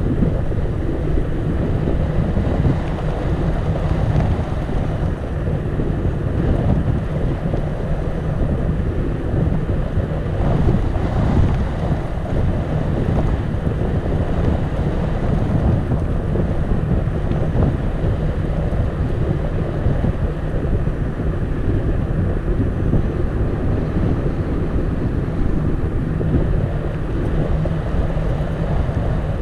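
Wind buffeting the microphone of a camera riding on a moving bicycle: a steady, loud rumble.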